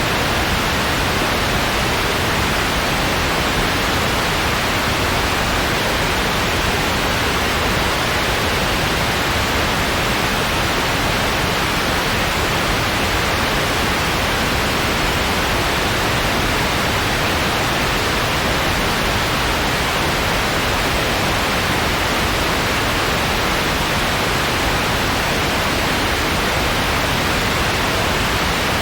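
Steady synthetic white noise, an even hiss that does not change.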